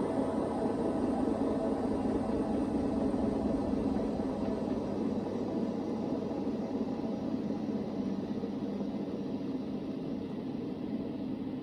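Hoover VHD 9163 ZI front-loading washing machine at the end of its first spin: the drum and motor whir steadily and then slowly wind down, the sound fading from about a third of the way in.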